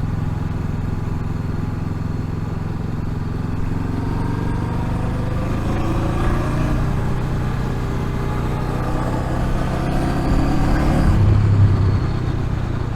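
Honda Rebel 500 motorcycle's parallel-twin engine running under way, its pitch rising and easing as it picks up speed around the middle and again near the end.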